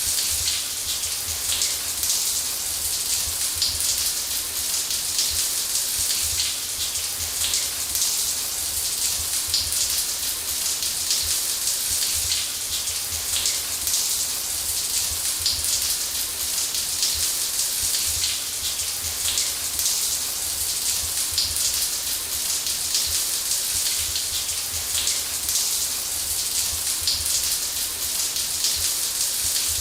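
Shower water running steadily, a dense even hiss of spray spattering on a surface.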